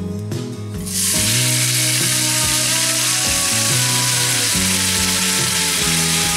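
Mixed vegetables hitting hot oil in a frying pan and sizzling loudly, starting suddenly about a second in and holding steady, over background music.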